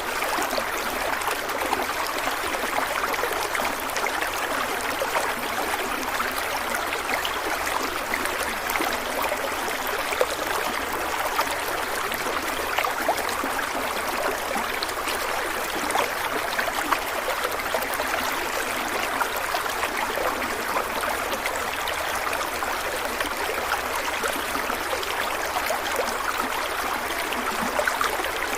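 Stream water running steadily over rocks, with an even rushing sound and fine splashing and trickling throughout.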